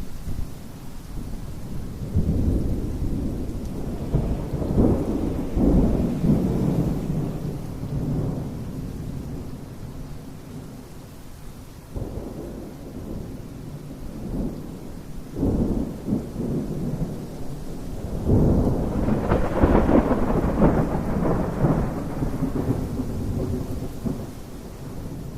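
Thunder rumbling in several rolls over steady rain, with the longest and loudest roll about three-quarters of the way through.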